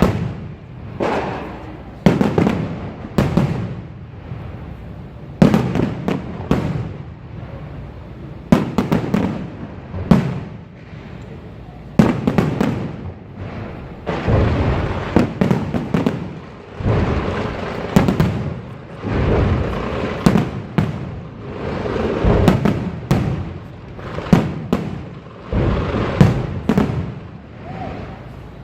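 Fireworks display: aerial shells bursting one after another about once a second, each sharp bang trailing off in crackle, with stretches of denser crackling between the louder bursts.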